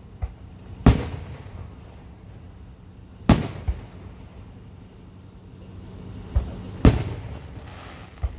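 Aerial fireworks shells bursting: three loud booms a few seconds apart, each trailing off in a rumbling echo, with fainter thumps in between.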